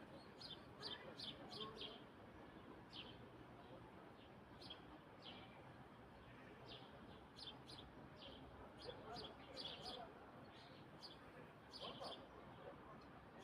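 Faint small-bird chirping at dusk: short, high chirps that come in irregular clusters, over a low hiss of background noise.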